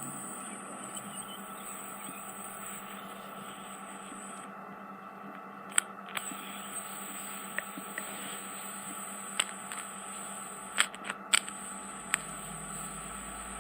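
Ear microsuction unit running with a steady whine and hiss. A few sharp clicks and crackles come through, mostly in a cluster near the end, as debris in the ear canal meets the suction tube.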